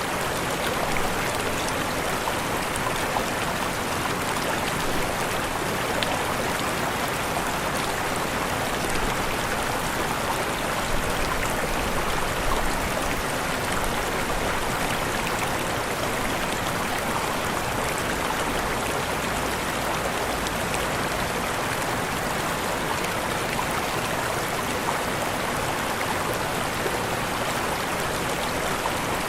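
Waterfall rushing in a steady, unbroken wash of falling and splashing water.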